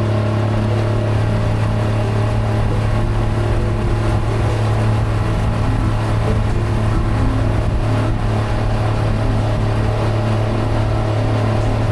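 River cruise boat's engine running steadily, a constant low hum heard from on board.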